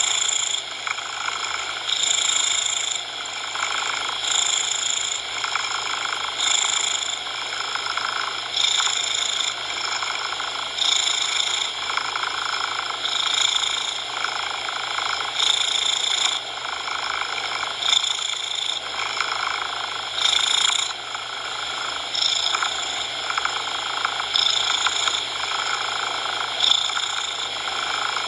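A cat purring, swelling with each breath about every two seconds, mixed with steady coloured noise.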